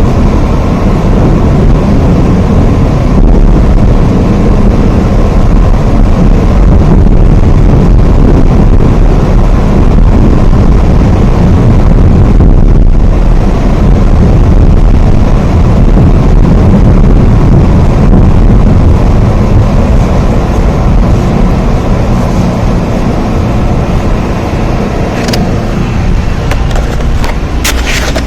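Steady, heavy rain, a dense unbroken wash of sound with a deep weight to it. A few sharp crackles come in near the end.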